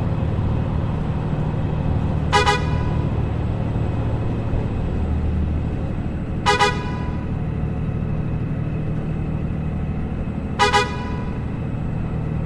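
A vehicle horn gives short double honks three times, about four seconds apart, over steady road and engine noise from traffic.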